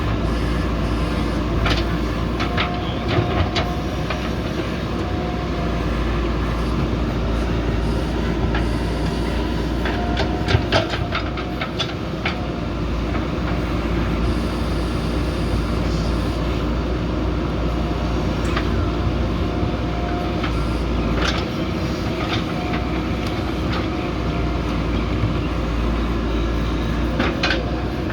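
JCB backhoe loader's diesel engine running steadily at work, with scattered sharp metallic clanks and knocks from the machine as it digs.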